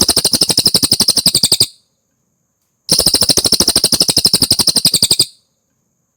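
Cililin bird singing a rapid, high chattering trill of about a dozen notes a second. It comes in two phrases of about two seconds each, with a pause between.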